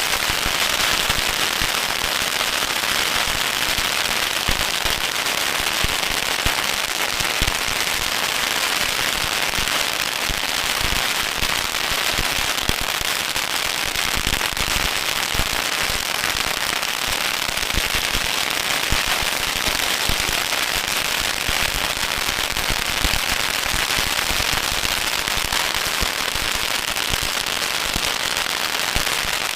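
Strings of firecrackers going off in a continuous, dense crackle of rapid bangs.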